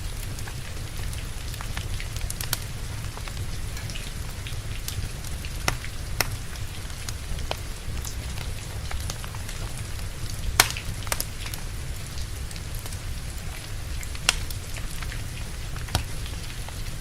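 Steady rain with a low rumble underneath, and a wood fire crackling with scattered sharp pops, the loudest about ten seconds in.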